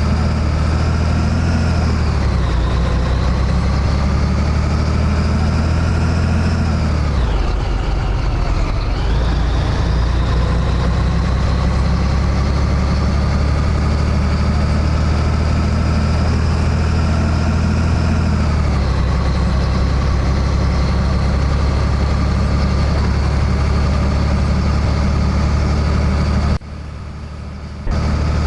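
Scania 113H truck's 11-litre six-cylinder diesel engine pulling on the road. Its note climbs slowly and falls back sharply twice, as at gear changes. It turns much quieter for about a second near the end.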